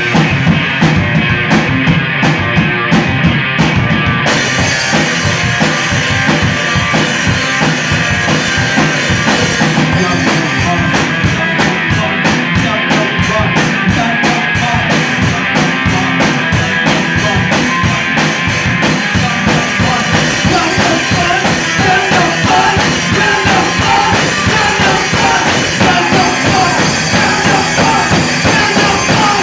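Live rock band playing without vocals, a drum kit driving a steady beat with bass drum and cymbals under the other instruments. The cymbals open up about four seconds in, and quick, even strokes take over from about ten seconds in.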